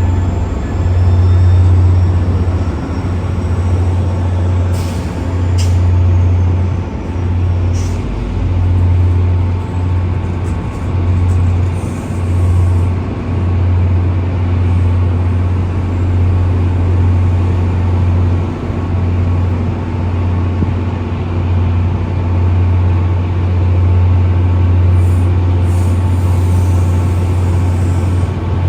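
Transit bus running with a steady low engine drone, and short bursts of air-brake hiss about five and eight seconds in and again near the end.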